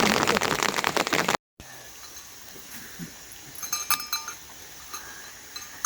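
Livestock bells clinking, in short ringing clusters twice, over a quiet outdoor background. Before them, a loud rain-like hiss cuts off abruptly about a second and a half in.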